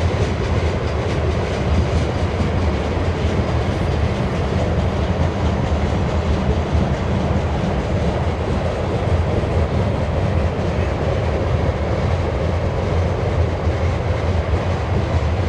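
BNSF grain train rolling past close by, a steady loud rumble of freight cars' steel wheels on the rails.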